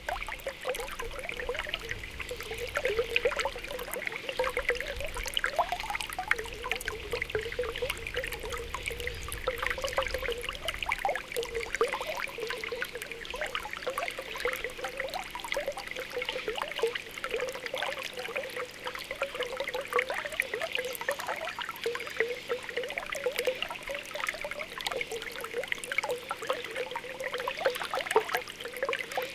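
Spring water welling up through the ground, bubbling and popping continuously with many small gurgles.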